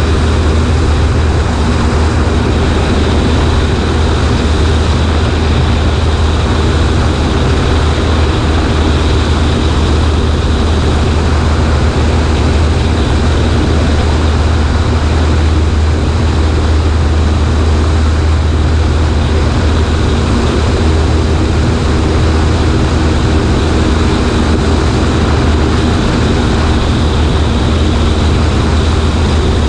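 Cessna 140A's engine and propeller running steadily, a constant low drone with a rushing noise over it, heard from a wing-mounted camera.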